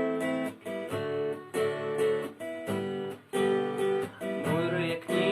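Acoustic guitar strumming chords in a steady rhythm, each chord ringing between short breaks. A voice begins singing near the end.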